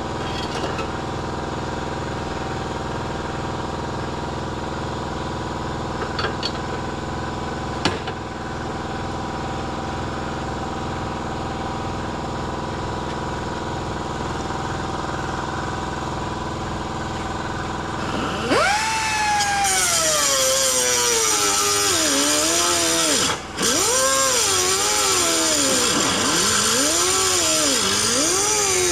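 A steady machine hum with a couple of clicks. About eighteen seconds in, a louder power tool starts, with a harsh hiss and a pitch that sags and wavers up and down as it works under load, cutting out for a moment partway through.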